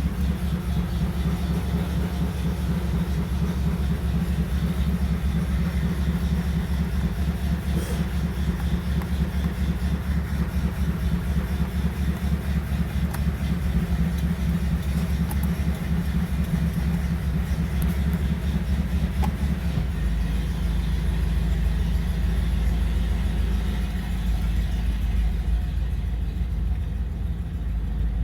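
1951 Ford engine idling steadily in a rhythmic pulse after a cold start. The low note of the idle changes about twenty seconds in.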